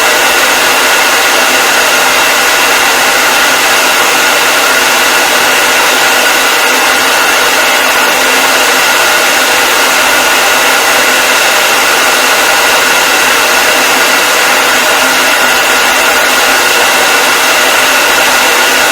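Hair dryer running steadily: a loud, even rush of air with a constant high whine from the motor and fan.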